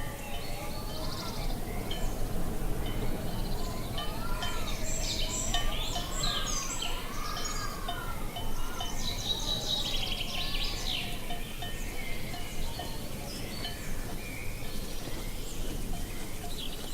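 Birds chirping and calling over a steady rush of background noise, with a series of rising-and-falling calls in the middle and a busy burst of high chirps from about four to eleven seconds in.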